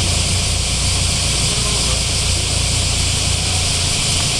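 A modified car's engine running steadily at low revs through its exhaust, a constant low drone under a steady hiss.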